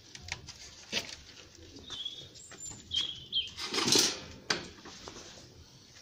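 Garden birds chirping in a few short high calls through the middle, over scattered light clicks. A loud, brief rustling noise just after the chirps is the loudest sound.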